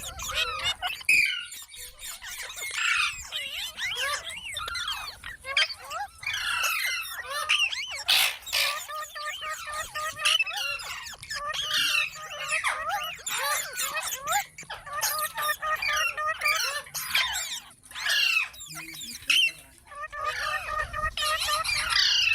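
Parrot chattering and squawking: a near-continuous run of short, quickly bending, high calls, with a few louder squawks.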